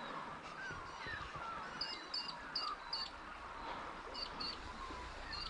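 Birds calling from the riverbank: a run of short, high chirps about every half second, with lower warbling notes among them, over a steady wash of background noise.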